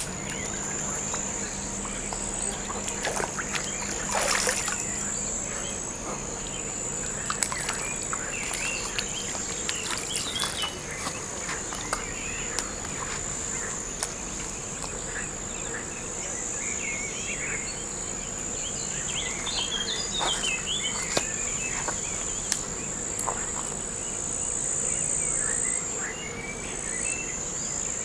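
Insects trilling in one steady high-pitched buzz, with short bird chirps scattered through it and a few sharp ticks and small splashes now and then, the loudest about four seconds in.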